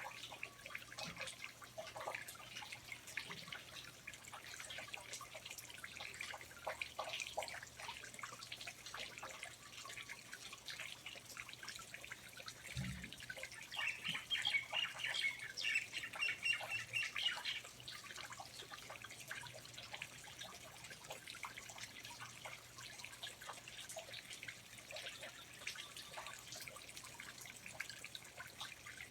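Rainforest ambience: water dripping steadily, with birds calling; about halfway through, a bird gives a quick run of repeated high chirps for a few seconds. A single soft thump comes just before the chirps.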